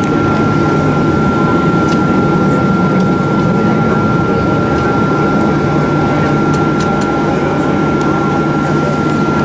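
Steady cabin noise inside a Boeing 737-800 on the ground, its CFM56 engines running at low power with a constant high whine over a low rumble and air-conditioning rush.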